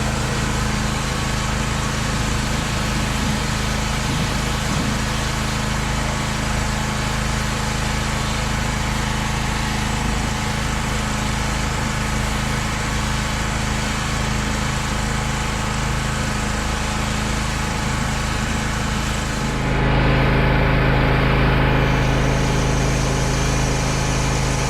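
An engine running steadily at a constant speed. About 20 seconds in, its note changes and it gets a little louder.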